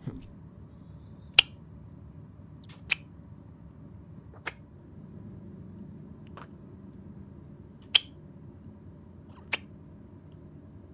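Train interior ambience: a steady low rumble with a sharp click about every one and a half seconds.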